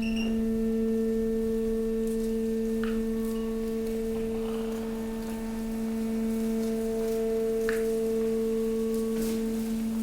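Hydraulic power unit of a waste compactor running with a steady, even hum, with a few faint knocks and creaks from the press.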